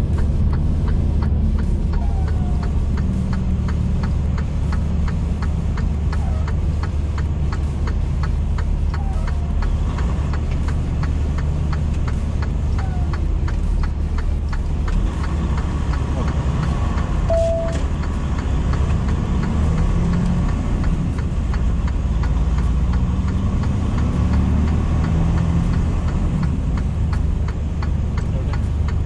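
Semi truck's engine and road noise heard from inside the cab while driving: a steady low drone with faint repeated ticking.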